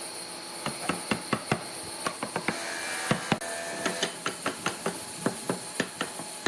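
Irregular sharp knocks and taps on wood, a few a second, over a steady background hiss.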